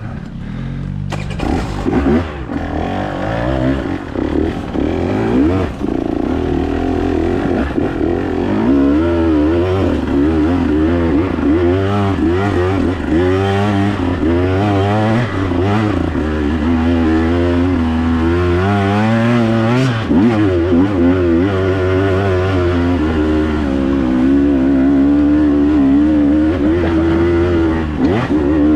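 Dirt bike engine being ridden, its pitch rising and falling constantly as the throttle is worked, with some clatter along the way.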